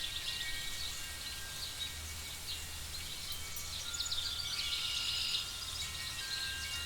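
Night forest ambience: clusters of quick bird-like chirps and trills, over a steady low rumble and faint drawn-out chime-like tones.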